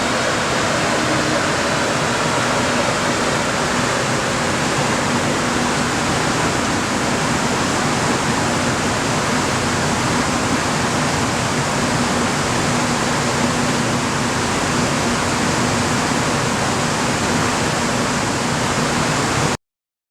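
Steady, loud rushing noise in a chassis dyno cell around a Ferrari 458 Spider, with a faint low hum and no revving; it cuts off abruptly near the end.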